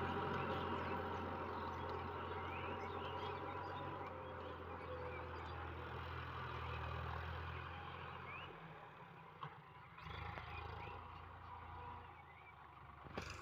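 Sonalika DI-50 RX tractor's diesel engine running steadily, fading gradually, with a brief knock near the end.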